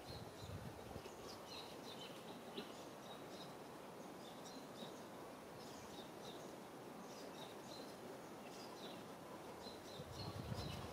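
Faint outdoor ambience with small birds chirping repeatedly in short, high notes, some sliding down in pitch, and a low rumble near the end.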